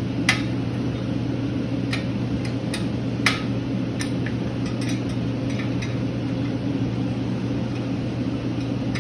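Hand tools clinking and tapping against metal several times at uneven intervals, the sharpest about a third of a second in and about three seconds in, over a steady low background hum.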